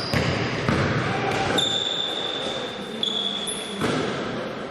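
Basketball game play in a sports hall: the ball bouncing on the court in a few sharp knocks, with high-pitched squeals, the longest lasting over a second, and the hall echoing.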